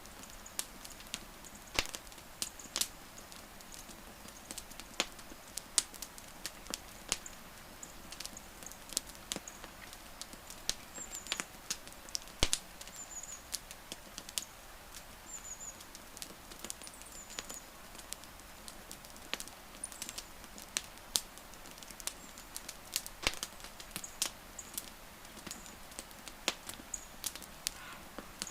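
Wood fire crackling: irregular sharp pops and snaps of burning wood over a soft steady hiss. A few faint, short, high chirps sound a little past the middle.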